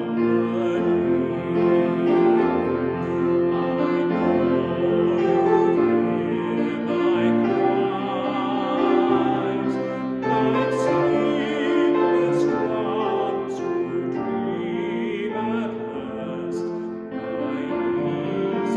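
Slow church music: a voice singing long held notes with vibrato over piano accompaniment.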